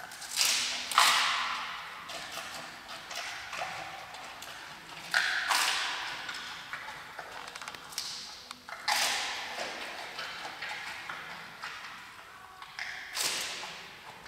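Giant panda biting into and chewing a bamboo shoot: several loud crunching snaps a few seconds apart, with quieter crunches of chewing between them.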